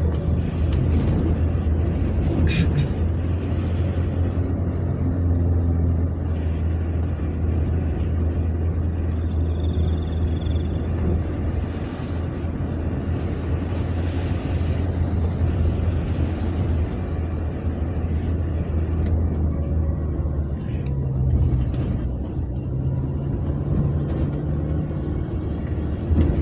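Engine and road noise of a moving ambulance heard from inside the cabin: a steady low drone, with the engine's pitch shifting in the last few seconds.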